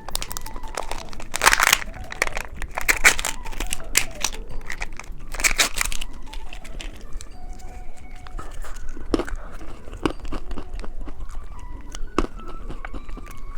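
Plastic candy packaging crinkling and tearing as it is opened by hand, dense crackles for about six seconds, then quieter handling with a few soft clicks.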